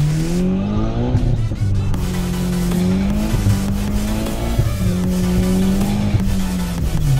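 Nissan S13 drift car's engine heard from inside the cockpit, revving up and dropping back as the throttle is worked through a drift: the pitch climbs in the first second, dips around the middle and climbs again. Music plays underneath.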